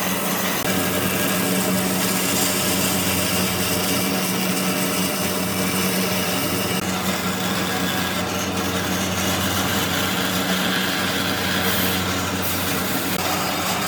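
A woodworking power tool running steadily, with a constant motor hum under a broad hiss.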